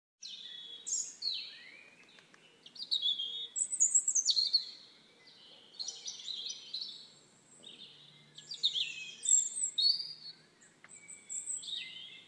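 Songbirds singing, a run of quick high chirping phrases with short pauses between them.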